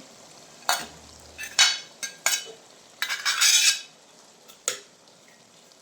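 A metal spoon clattering and scraping against a karahi as green beans are tipped into cooked mince and turned over. It comes as a few sharp clinks, then a longer scrape about three seconds in, and a last click before it goes quiet.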